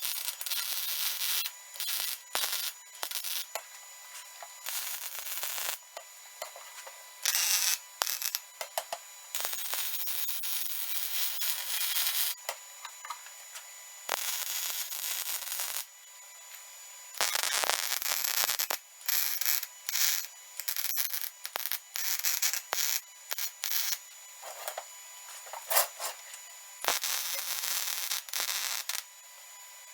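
Lincoln Power MIG 180 Dual welder arc crackling in repeated bursts, some several seconds long and others brief tacks, each starting and stopping abruptly as broken welds on a T-post pounder are rewelded.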